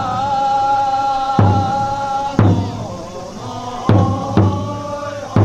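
Festival music for a whale-boat performance. A deep taiko drum is struck about five times at uneven intervals over a long held melodic note.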